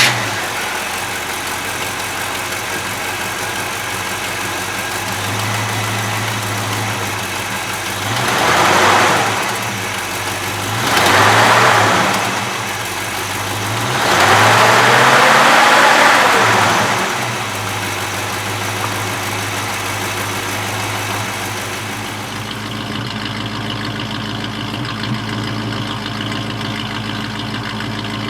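A 350 cubic-inch V8 just after starting, catching and then idling steadily. It is revved three times, two short blips and then a longer rev held for a few seconds, and each time it falls back to idle. The idle settles slightly lower near the end.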